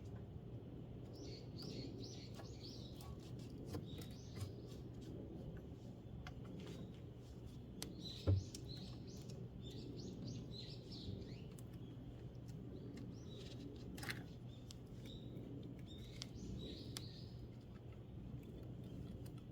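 Small birds chirping in repeated short clusters of high notes, over a faint steady low hum, with scattered light clicks and one dull knock about eight seconds in.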